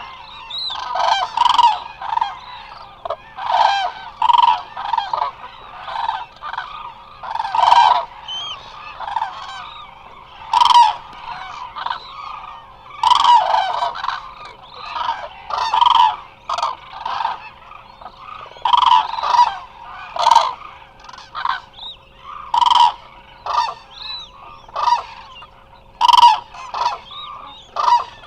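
A large flock of Eurasian cranes calling, many trumpeting calls overlapping about once a second, with a faint steady hum underneath.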